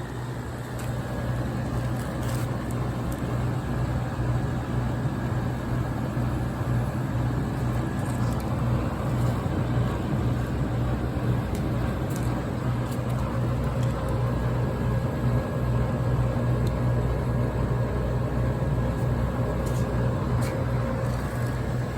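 General Electric Thinline air conditioner running on its first start-up: a steady low compressor hum with fan air noise over it, the refrigeration working as its lines start to get cold.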